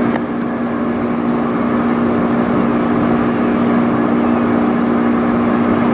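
A loud, steady engine drone with a constant hum whose pitch does not change.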